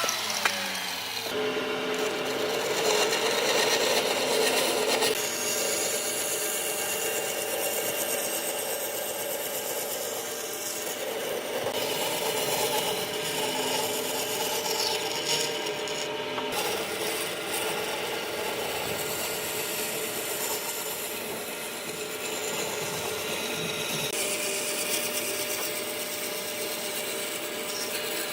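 Woodworking tools working wood: steady rasping and rubbing over a motor hum. A motor's pitch falls away in the first second, and the sound changes in character every several seconds.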